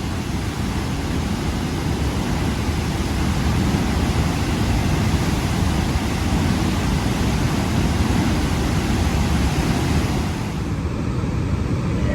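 The steady, dense rush of water falling down a tall waterfall, about 80 feet high. About ten and a half seconds in, the sound turns duller as the high end drops away.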